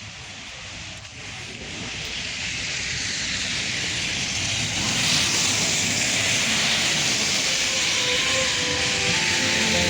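A steady rushing hiss that swells over the first five seconds and then holds, with a few soft music notes coming in near the end.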